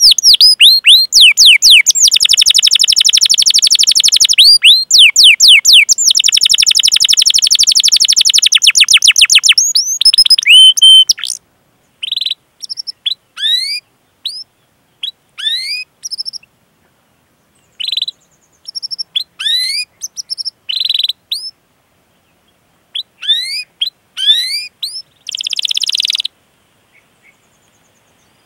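Domestic canary singing: a fast, continuous rolling trill for the first eleven seconds or so, then short separate 'cuit cuit' chirps and falling whistles with silent gaps between them.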